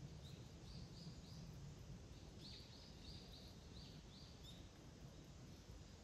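A small bird calling faintly in runs of short, repeated notes, about three a second: a brief run near the start, then a longer run in the middle, over a faint low background hum.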